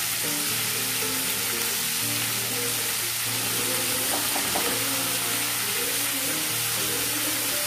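Chopped spinach sizzling in hot oil in a pan as it is stirred. Background music with held notes plays over it.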